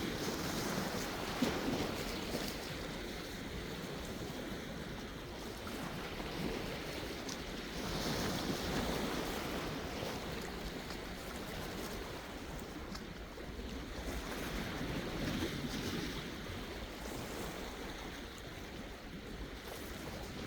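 Sea waves washing in, the surf swelling three times, about every seven seconds, over a steady low rumble.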